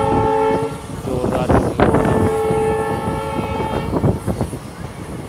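Train horn sounding twice: the first blast breaks off about half a second in, and a second blast lasts about a second from two seconds in. Under it runs the rumble and clatter of a moving passenger train's wheels on the track.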